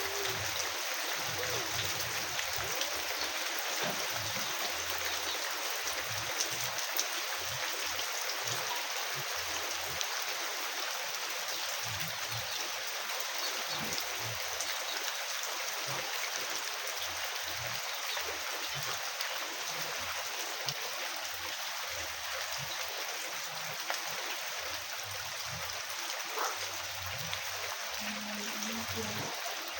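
Steady rain falling, an unbroken hiss of water with scattered drop ticks and low thumps.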